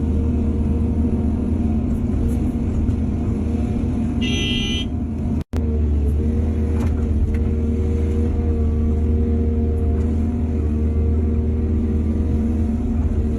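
Heavy diesel engine of an excavator running steadily under load, a deep rumble with a steady hum. About four seconds in a brief high-pitched tone sounds, and just after, the sound cuts out for an instant.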